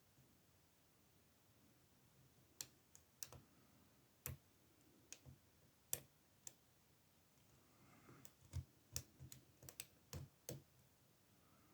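Faint, sharp clicks of lock picks working inside the older Ruko oval pin-tumbler cylinder of a brass and steel padlock: a few scattered ticks at first, then a quicker cluster in the last few seconds.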